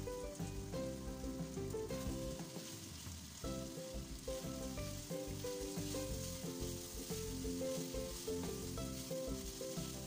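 Chicken adobo pieces sizzling in hot oil in a wok after the sauce has cooked down dry, browning toward golden, and stirred with a wooden spatula in the second half.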